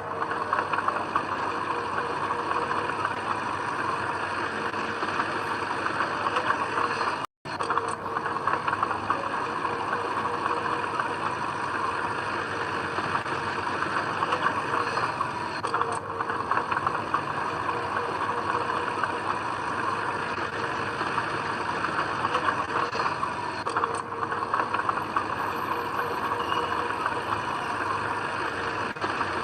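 Komatsu D20P crawler bulldozer running steadily, its engine and tracks making a constant rattling clatter. The sound drops out for an instant about seven seconds in.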